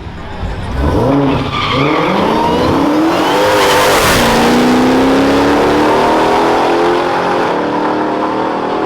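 High-horsepower race vehicles accelerating hard at full throttle, engine pitch climbing in several steps as they shift. They pass close about four seconds in with a sharp drop in pitch, then run on steadily and fade near the end.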